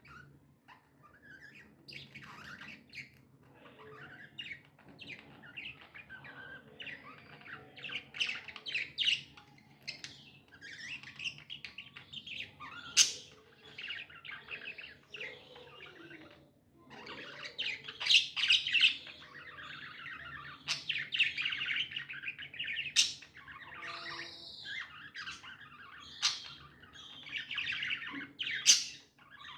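Pet budgerigars chattering and warbling almost without pause, with several sharp, louder squawks scattered through.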